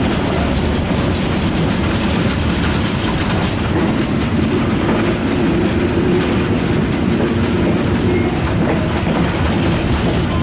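Passenger train running along the track, heard from an open carriage window: steady noise of wheels on rails, with a low drone that grows stronger about halfway through.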